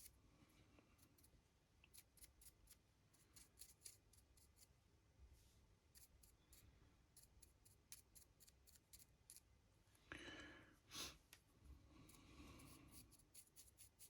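Faint, quick scratchy strokes of a paintbrush's bristles across a 3D-printed resin model, repeating about once or twice a second.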